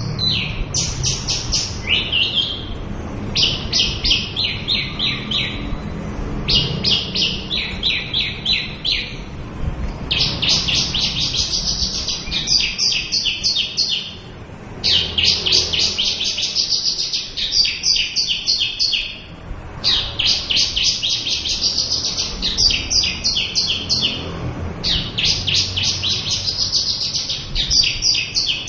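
Javan bush lark singing steadily: phrase after phrase of rapid trills of repeated high notes, each lasting a few seconds, with brief pauses between them.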